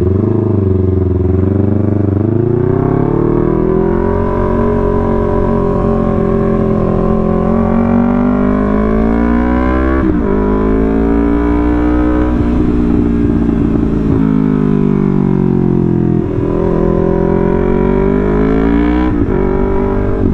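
Yamaha R3 motorcycle's parallel-twin engine under way, pulling up in pitch over the first few seconds and then running steadily. The note dips briefly and picks up again a few times, as at gear changes.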